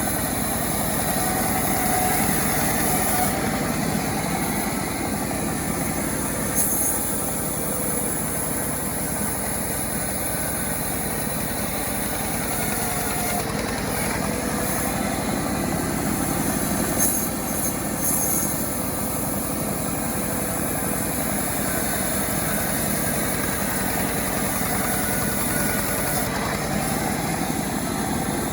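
Self-assembled chainsaw's small engine running steadily at an even, unchanging pitch and level.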